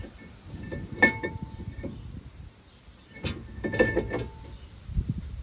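Metal tools or brake parts knocking together: a few sharp clinks, each ringing briefly, about a second in and twice more a little past the middle, over low rustling handling noise.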